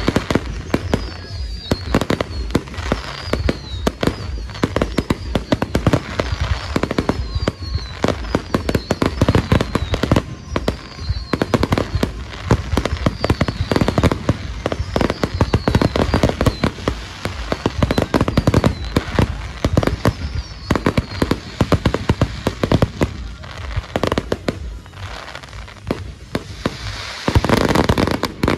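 Aerial fireworks bursting in a dense, rapid barrage of bangs and crackles, the closing barrage of a display, with a loud swell of bursts near the end before it cuts off.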